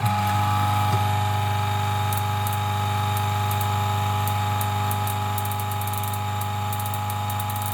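DF54 coffee grinder's motor running steadily with a low hum, switched on suddenly and running for about eight seconds.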